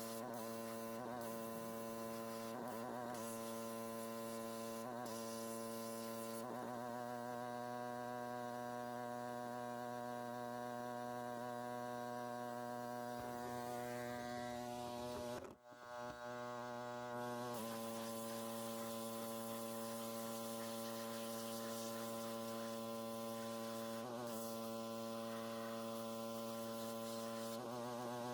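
Pressure washer running with a steady, many-toned hum and the hiss of its spray, washing degreaser off the engine. The sound drops out briefly about halfway through.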